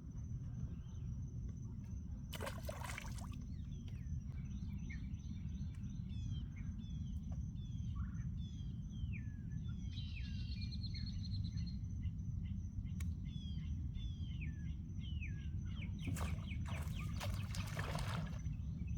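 Birds chirping, a long run of short descending calls, over a steady thin high insect drone and a constant low rumble. Two brief louder noisy bursts come about two seconds in and near the end.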